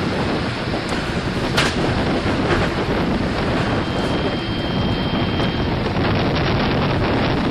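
Storm wind buffeting the microphone: a dense, steady rushing noise, with a sharp crack about one and a half seconds in. A faint thin whistle is heard in the middle.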